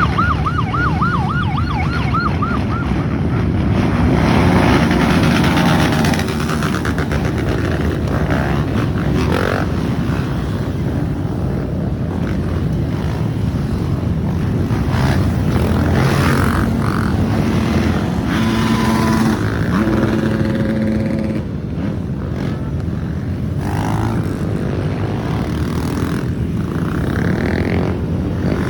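Several trail motorcycles running and revving as they set off together, their engine notes rising and falling and overlapping. A warbling high tone sounds over them in the first few seconds.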